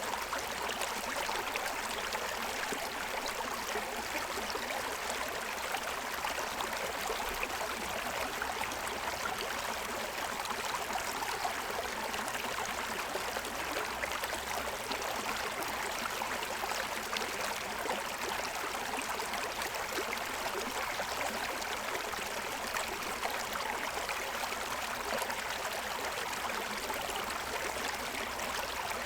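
Forest stream running over the stones of its bed: a steady babble of flowing water with no pauses.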